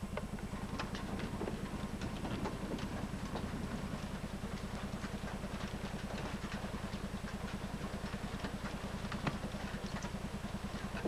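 Rain falling hard in a thunderstorm, heard as many scattered sharp ticks of drops. A steady, rapidly pulsing low hum sits underneath and is the loudest part.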